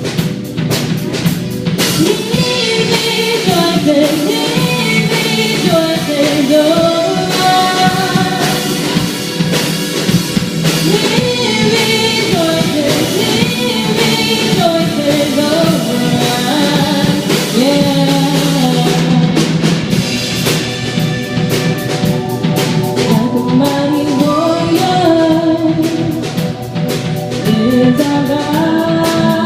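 Live worship band playing a rock-style praise song on a steady drum-kit beat, with a gliding melody line over the band.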